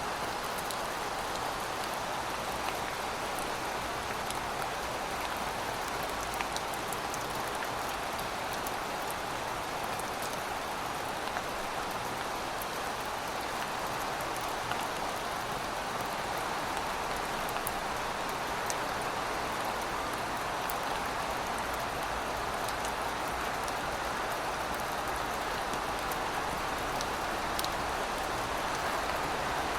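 Steady rainfall, an even hiss with scattered drop ticks.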